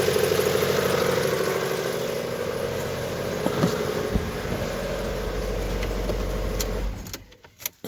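Mitsubishi 4B11 two-litre four-cylinder petrol engine idling with a steady rattling noise, then switched off about seven seconds in. The mechanic expects wear and scoring in the fourth cylinder. A broken-off EGR pipe found right after was causing the popping the owner complained of.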